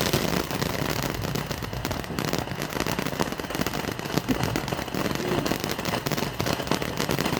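Consumer firework fountain going off after lighting: a continuous, dense crackling of rapid small pops at a steady loudness.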